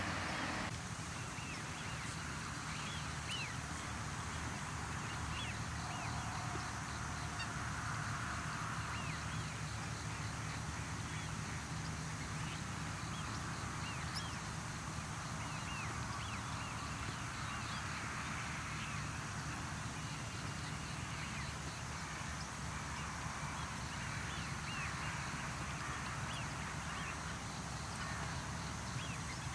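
Waterfowl calling again and again, short goose- or duck-like calls, over a steady low hum.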